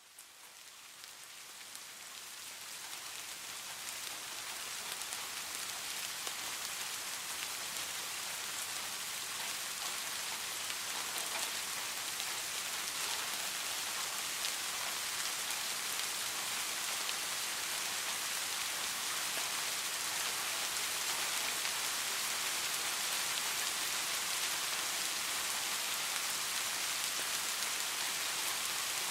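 Steady rainfall, a dense high hiss of drops with faint scattered patters, fading in over the first few seconds and then holding at an even level.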